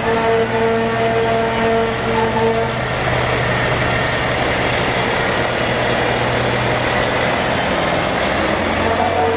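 Heavy trucks rolling past in a parade, engines running. One truck's air horn blows a long steady blast for the first few seconds, and a horn sounds again near the end.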